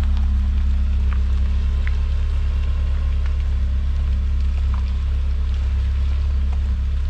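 A steady, loud, low machine hum that starts abruptly just before and runs on without change, with faint light ticks and clinks over it.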